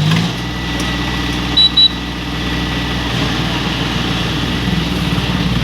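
Tractor engine running steadily, with two short, high-pitched beeps in quick succession about a second and a half in.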